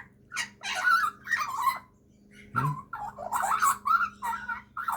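Young Australian magpie calling in a run of short chattering phrases, with a pause about two seconds in before it carries on.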